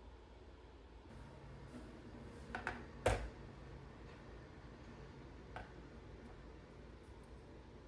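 A few light knocks and clicks, the loudest about three seconds in, over a steady low hum that starts about a second in.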